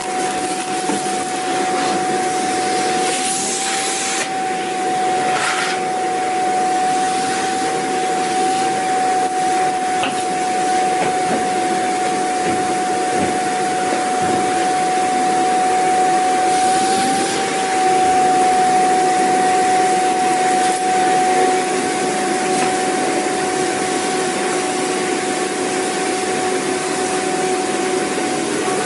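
Vacuum cleaner running steadily: a rush of air with a constant high motor whine. A few brief hissing swells come about 3, 5 and 17 seconds in.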